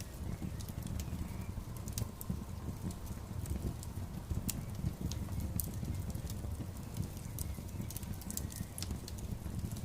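Fire burning in a fire pit: a steady low rumble of flames with irregular sharp crackles and pops throughout.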